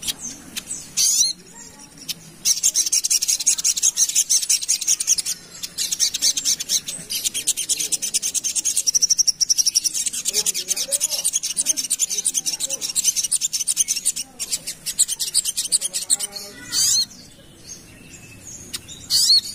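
Crimson sunbird (sogok ontong) singing: a rapid, high-pitched chattering trill that runs unbroken for about twelve seconds, with short rising whistled notes before and after it.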